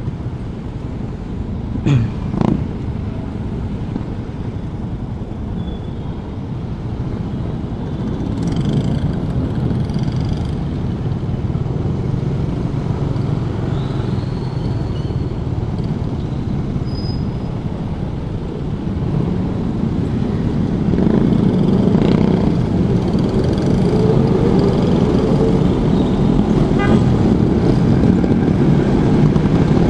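Suzuki Raider 150 motorcycle being ridden, its engine running under heavy wind and road noise. Two short loud sounds come about two seconds in. From about twenty seconds in it grows louder, and the engine pitch climbs as it accelerates.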